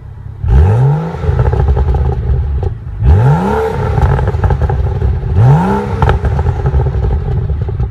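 BMW 335i's turbocharged inline-six engine revved three times from idle, each rev rising quickly in pitch and then held for a couple of seconds.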